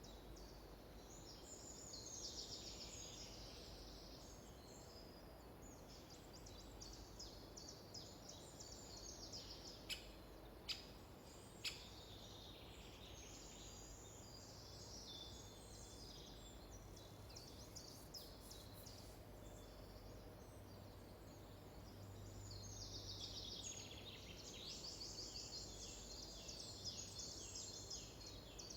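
Faint birdsong in a forest: rapid high trills and chirps, heavier near the start and again toward the end, with three sharp clicks about ten to twelve seconds in.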